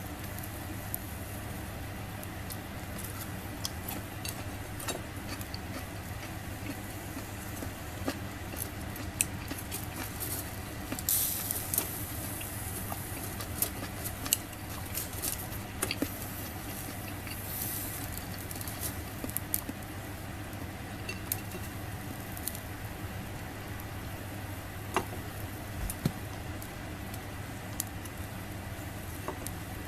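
Table sounds at a meal: scattered light clicks and taps of tableware, with a short hiss about 11 seconds in and again near 18 seconds, over a steady low hum.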